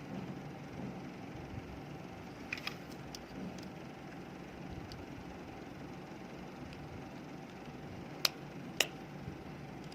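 Small clicks and taps from working on a single laptop battery cell to open it, with two sharp clicks near the end, over a steady low hum.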